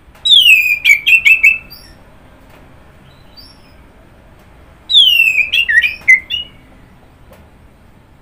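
Orange-headed thrush singing: two loud phrases about four seconds apart, each opening with a falling whistle and running into a quick string of short notes, with faint, softer notes between them.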